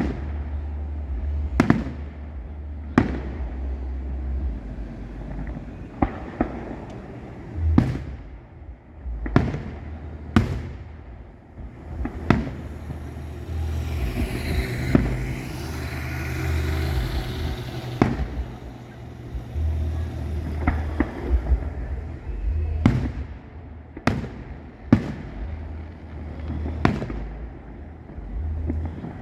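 Aerial fireworks going off: a string of sharp booms a second or two apart with a low rumble between them, and a crackling hiss of crackle shells for several seconds around the middle.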